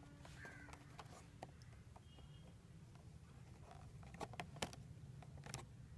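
Near silence with a low steady hum and faint, scattered clicks and light taps, a few louder ones about four to five and a half seconds in.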